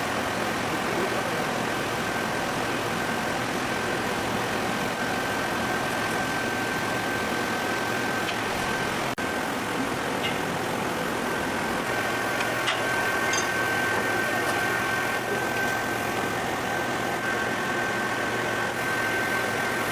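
Steady machine roar of glass-studio equipment with a constant high-pitched whine running through it, and a few faint clinks in the middle.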